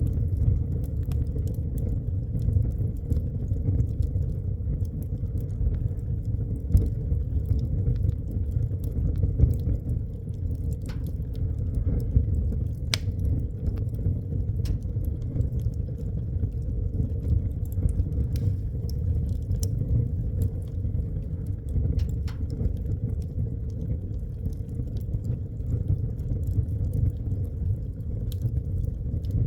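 Wood fire burning in a fireplace: a steady low rumble of the flames with scattered crackles and a few sharper pops.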